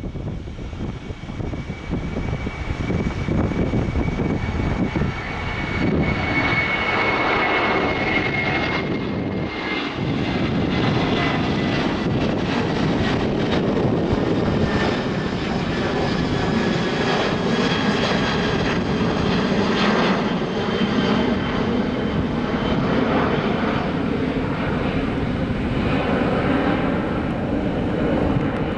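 Qantas Airbus A330-200 jet airliner departing under takeoff power: a loud, steady engine roar with a high whine that slowly falls in pitch.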